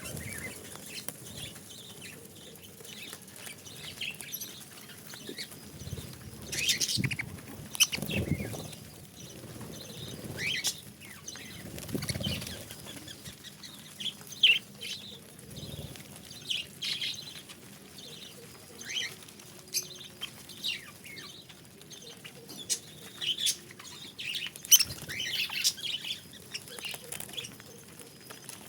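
Budgerigars chirping in short, scattered calls, with a few flutters of wings now and then.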